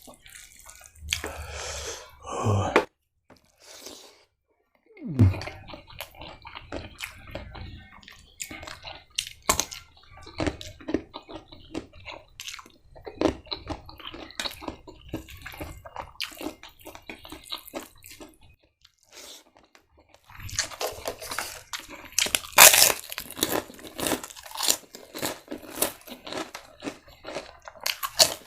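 Close-up sound of a person chewing and crunching food mouthful after mouthful, in many short irregular crunches that grow loudest over the last several seconds.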